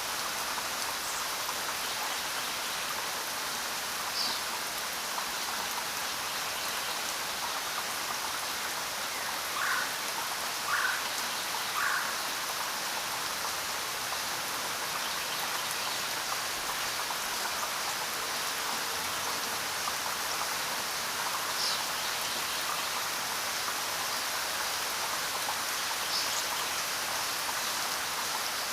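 Steady rainfall hissing evenly. A few brief chirps sound over it, three of them in quick succession about ten seconds in.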